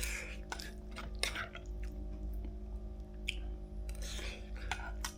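Irregular soft clicks and short rustling noises over a steady low hum.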